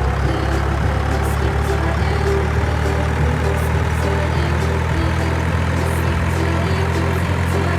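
An engine or small motor running steadily with a low, even hum.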